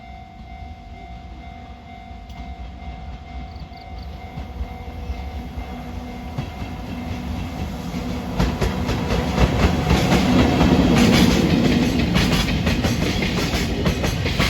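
Freight train approaching and passing on the track, growing steadily louder, with its wheels clacking rapidly over the rail joints from about halfway in.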